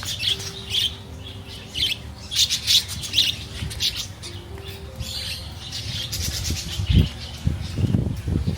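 Birds squawking in a run of short, repeated calls, with a few low thumps near the end.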